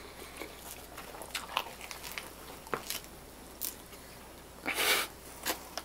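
Close-miked chewing of a mouthful of grilled chicken sub: soft wet mouth clicks and squishes, with a brief louder noise about five seconds in.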